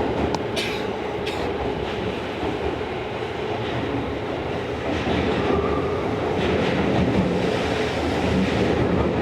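Tokyo Metro 16000 series subway car running, heard from inside the car: a steady rumble of wheels on rail with a low steady hum. A few brief high hisses come near the start, and the noise grows a little louder about five seconds in.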